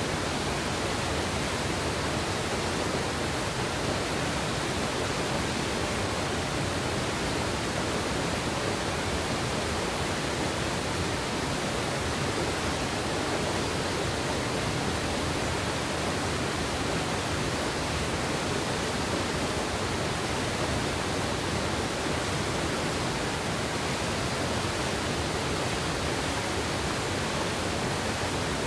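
Mountain river water rushing steadily over rocks, an even unbroken roar of flowing water.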